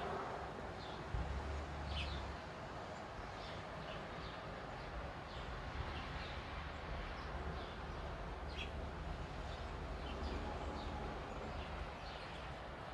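Small songbirds chirping: short, high, downward chirps at about two a second, over a steady low rumble.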